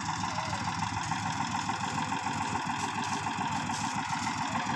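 Eicher 485 tractor's three-cylinder diesel engine running steadily, an even beat of firing pulses.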